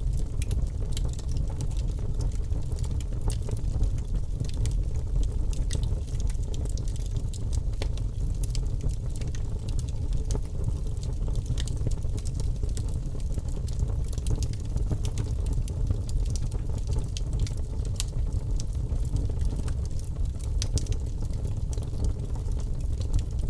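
Wood fire in a fireplace crackling: a steady low rumble with many small, irregular pops and snaps.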